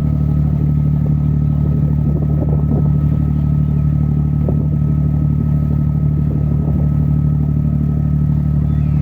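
A boat's engine running steadily with a low, even hum, heard from on board.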